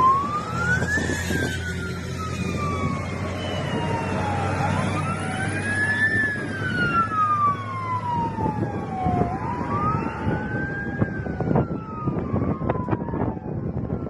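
Wailing sirens of airport fire trucks: at least two, out of step, each rising in pitch and then sliding slowly down, over a steady low engine drone from the trucks. Scattered knocks come in over the last few seconds.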